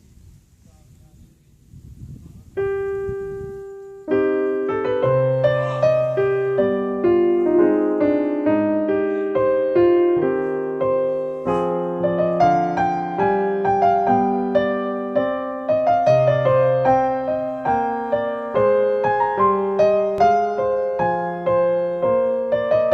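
Background piano music: a quiet start, one note struck about two and a half seconds in, then a flowing melody of struck notes from about four seconds on.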